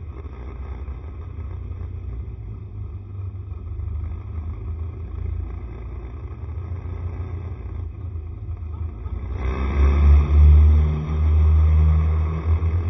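Honda SCR110 scooter being ridden: its small single-cylinder engine runs under a steady low rumble, which grows louder about nine seconds in.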